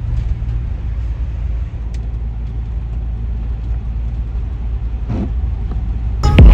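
Steady low rumble of a Chevy Express 3500 van driving at highway speed, heard from inside the cabin: engine and tyre noise on the road.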